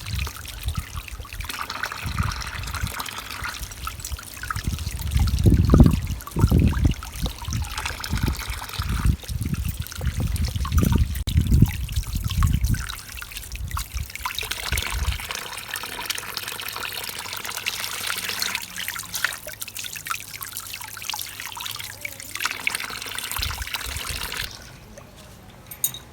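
Running water trickling and splashing, with a run of heavy low thumps about a third of the way in. The water stops shortly before the end.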